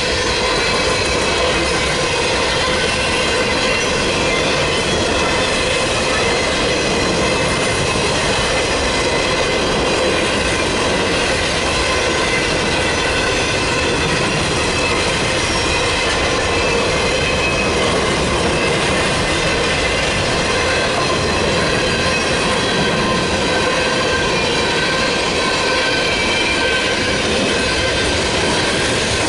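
Freight train cars rolling steadily past close by: wheels rumbling and clicking over the rails, with several high, steady squealing tones over the top.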